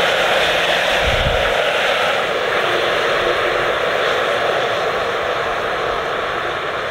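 Large RC Boeing 777X model's jet engines running at high power, a loud steady rushing roar that eases slightly toward the end.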